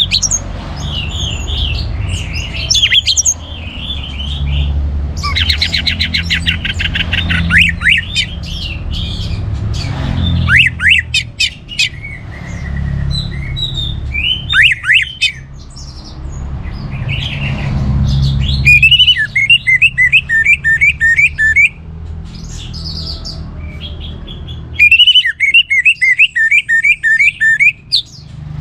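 Orange-headed thrush singing a varied, rapid song of trills and quick downward-slurred whistles, with two long runs of fast repeated notes in the second half, over a steady low hum.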